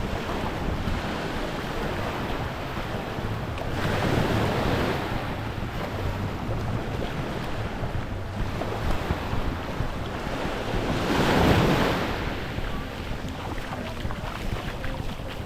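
Small waves washing onto a beach, the surf swelling about four seconds in and again a little before twelve seconds, with wind buffeting the microphone.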